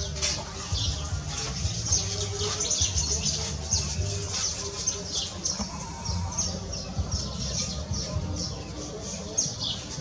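Small birds chirping rapidly: a dense run of short, high, falling chirps and squeaky notes, several a second, without a break.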